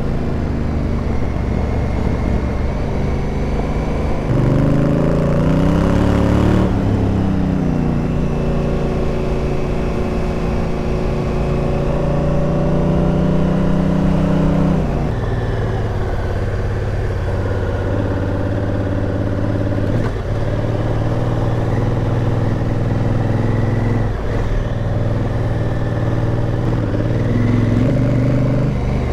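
Adventure motorcycle's twin-cylinder engine under way, its revs climbing in steps as it runs up through the gears, holding, then dropping and rising again with the changes in speed.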